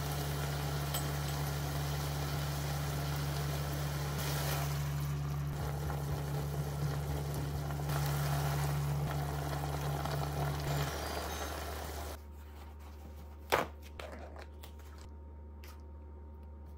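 Ground pork sizzling in a frying pan over a steady low hum. It gets louder about 8 seconds in as sauce is poured in, then stops abruptly about 12 seconds in, leaving quiet room tone with a single sharp knock.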